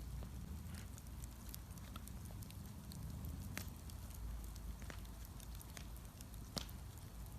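Wood bonfire burning, with scattered sharp crackles and pops over a low steady rumble; one louder pop comes near the end.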